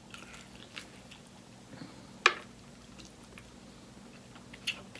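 Close-up chewing and biting of sauce-coated fried chicken, with soft wet mouth clicks. There is a sharp, loud click a little over two seconds in and another near the end.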